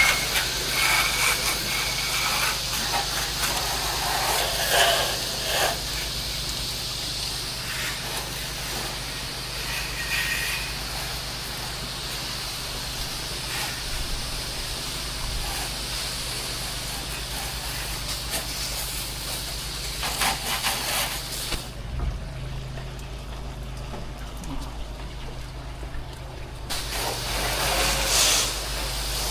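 Pressure-washing rig running: a steady engine hum under the hiss of water spraying. The spray cuts off for about five seconds near the end, then starts again, while the hum carries on.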